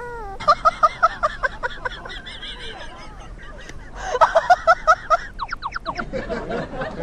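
An animal giving rapid series of short pitched calls, about five a second, in two bursts: one near the start and one about four seconds in, followed by a run of quick falling chirps.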